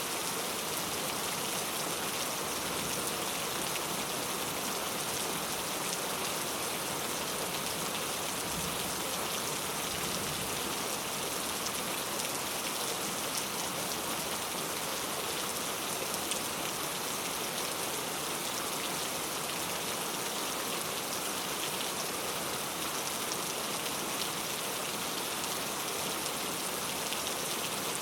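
Steady rain falling, a dense even hiss of drops with scattered fine patters.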